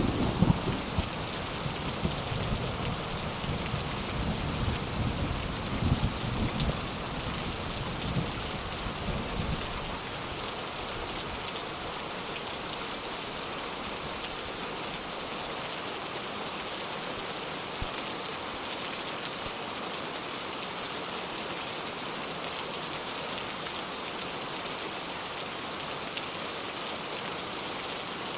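Steady rain falling, with a low rumble of thunder over the first ten seconds or so that fades away.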